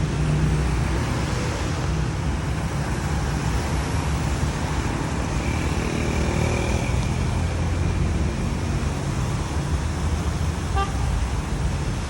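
Steady city street traffic on a wet road: engines rumbling and tyres hissing, with a brief car horn toot about halfway through.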